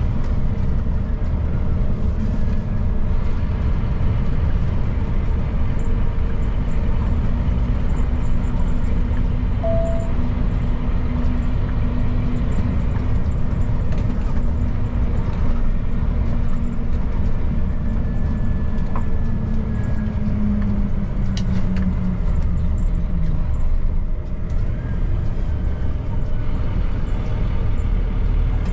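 Scania P310 truck's diesel engine running under way, with steady low rumble and road noise; the engine note rises slightly about twenty seconds in, then drops.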